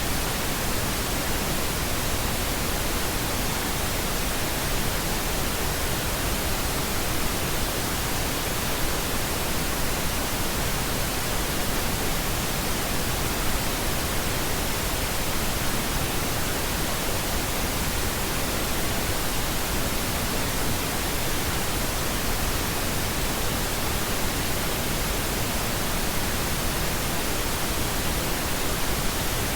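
Steady pink noise: an even, unchanging hiss spread across the whole range of pitch, with no rhythm or events.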